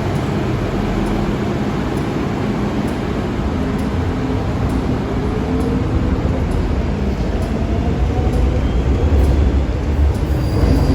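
MTR M-train electric multiple unit running through a station platform without stopping: a steady heavy rumble of wheels and running gear, with a faint whine rising in pitch about halfway through.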